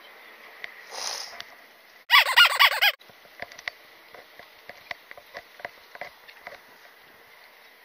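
A bird's call: a quick run of about five or six harsh, pitched notes about two seconds in, lasting under a second. Scattered faint clicks and taps follow.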